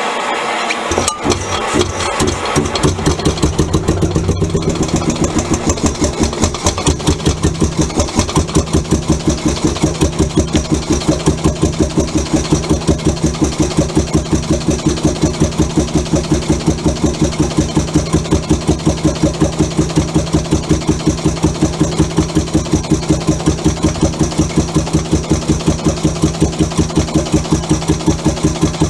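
Seffle two-stroke hot bulb engine starting about a second in, then settling into a steady, slow, even firing beat as it runs at idle.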